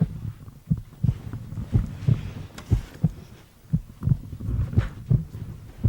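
Heartbeat sound effect: low, dull thuds repeating about two to three times a second.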